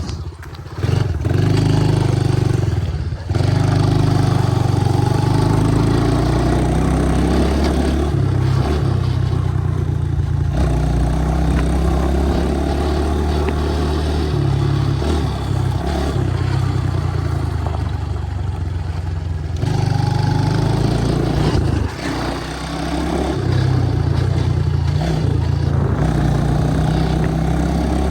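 2017 Honda 110 pit bike's small single-cylinder four-stroke engine running while ridden, revving up and easing off, with short drops in engine sound about a second and three seconds in and again about two-thirds of the way through.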